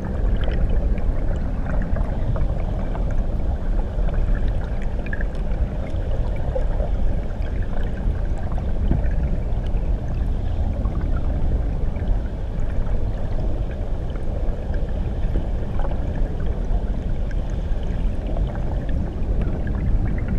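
Muffled water heard from below the surface beneath a waterfall: a steady deep rumble with faint bubbling and gurgling.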